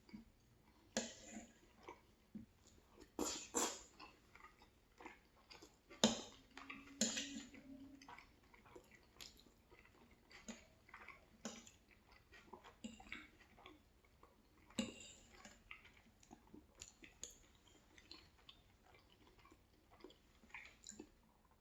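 Close-miked chewing and wet mouth sounds of a person eating, with irregular smacks and clicks, some louder than others. A brief low steady hum lasts about a second and a half around seven seconds in.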